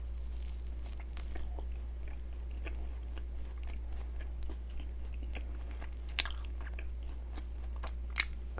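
Close-miked chewing and biting of a mint chocolate doughnut: soft, irregular mouth clicks and smacks, with two sharper clicks about six and eight seconds in. A steady low hum runs underneath.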